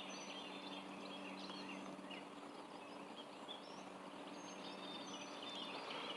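Faint ambience: scattered small bird chirps over a steady low hum.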